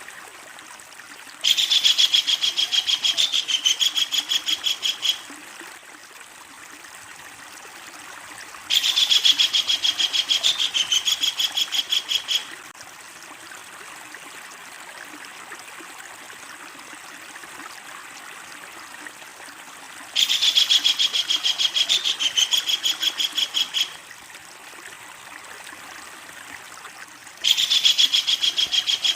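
Kingfisher giving its long, loud rattling call: a rapid run of sharp, high notes repeated about a dozen times a second. The call comes in four bouts of roughly three and a half seconds each, starting about a second and a half in, near nine seconds, near twenty seconds and near the end.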